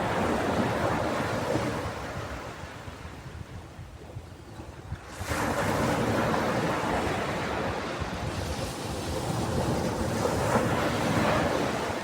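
Ocean waves on a beach. A swell of surf fades away over the first few seconds, then a new wave breaks suddenly about five seconds in and washes up loudly.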